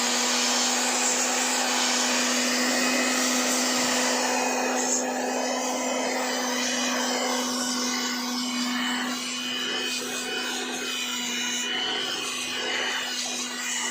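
Handheld electric blower running steadily, blowing dust out of a car's cabin air filter: a steady motor hum under a rush of air that eases off a little about five seconds in.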